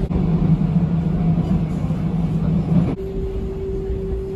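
Running noise heard inside a moving electric commuter train: a steady low hum and rumble. About three seconds in it switches abruptly to a steady whining tone over the rumble.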